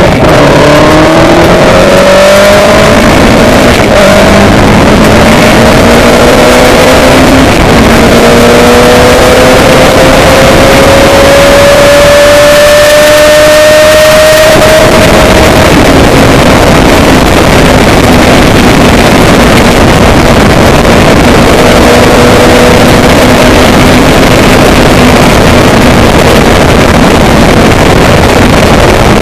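A motor vehicle's engine pulling up steadily in pitch for about fifteen seconds, then running at a steady cruise, under loud wind rush.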